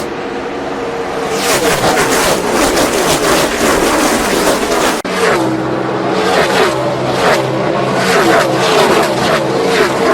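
Several NASCAR Cup cars' V8 engines at racing speed, their overlapping engine notes rising and falling as the pack runs past. About halfway through, the sound cuts abruptly to another pack of cars at speed.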